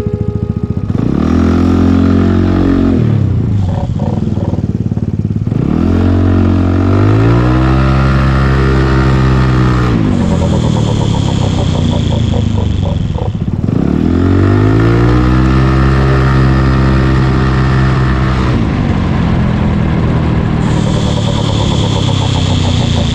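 Yamaha Cygnus X 125 cc single-cylinder scooter engine being ridden: it revs up, holds, and drops back three times as the scooter accelerates and slows. A fast light ticking rattle is heard while it slows.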